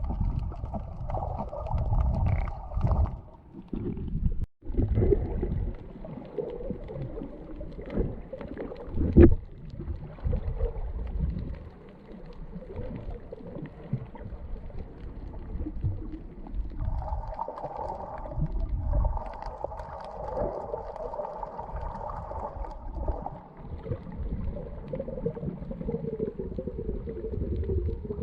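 Muffled water sound as picked up by a submerged camera: sloshing and gurgling over a dense low rumble, with scattered knocks. A humming tone comes in briefly at the start and again for several seconds past the middle.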